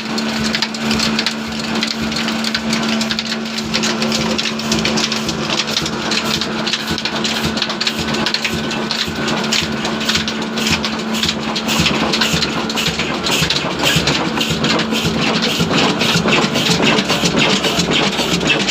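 Old Ruston diesel engine running with a rapid, even clatter of knocks, under a steady hum that fades out about halfway through.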